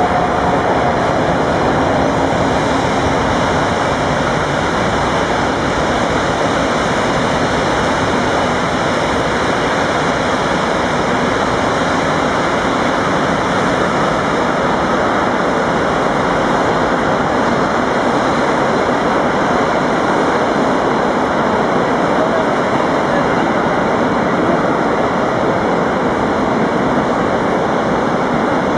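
Freight train wagons rolling past on the track, a loud steady rushing noise without pauses.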